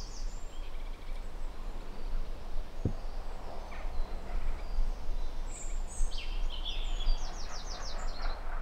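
Songbird singing over a steady low rumble, with a run of quick, high repeated notes in the last few seconds.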